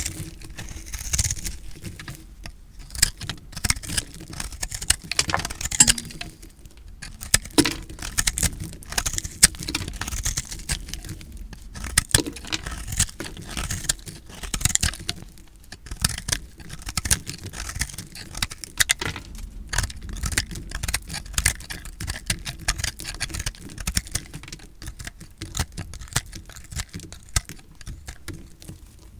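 Knife cutting through recycled soap, with dense crunching and crackling as the blade works through it. There are a few short pauses between cuts.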